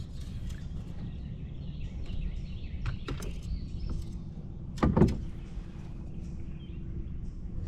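Steady low outdoor rumble from wind and water, with faint bird chirps and a single loud thump about five seconds in.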